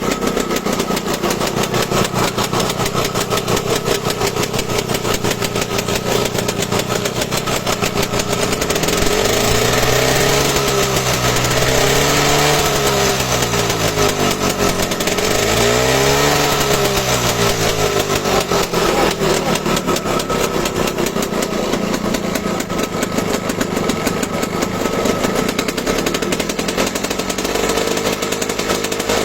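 A small petrol engine running, revved up and back down twice around the middle.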